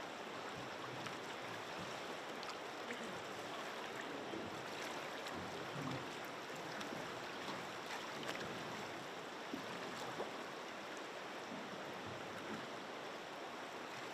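Steady rush of flowing river water around a drift boat, with a few faint clicks and knocks.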